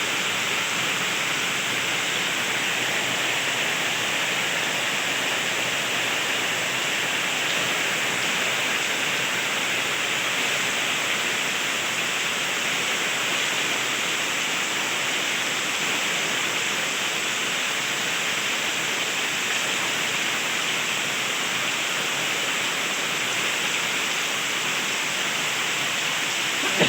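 Heavy rain falling steadily: a dense, even hiss that keeps a constant level throughout.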